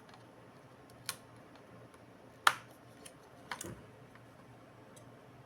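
A few sharp clicks and knocks of small hard objects being handled, over a faint steady hum. The loudest click comes about two and a half seconds in, and a short cluster of clicks follows about a second later.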